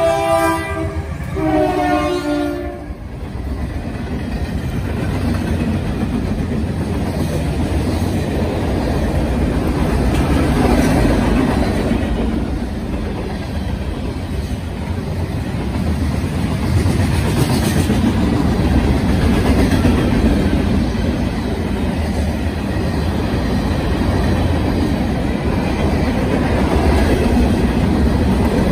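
Norfolk Southern freight train passing close by: the lead locomotive's air horn sounds a chord that drops in pitch as it goes past and cuts off about three seconds in. Then the steady rumble and clickety-clack of loaded tank cars and covered hopper cars rolling by.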